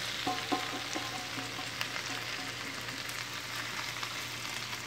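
Spinach leaves sizzling in hot olive oil in a skillet: a steady frying hiss with scattered crackles as the leaves go into the pan.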